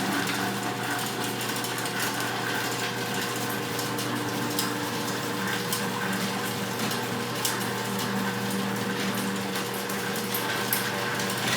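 Genie garage door opener running as it lowers the door, a steady motor hum with irregular rattling clicks from the moving door. It shuts off at the very end.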